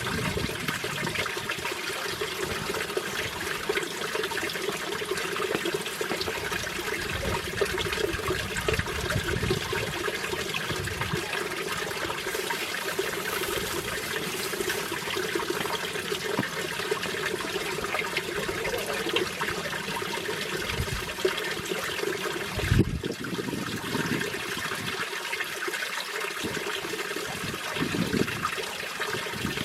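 Mountain valley stream flowing and splashing over rocks, a steady rush of water, with one short thump about 23 seconds in.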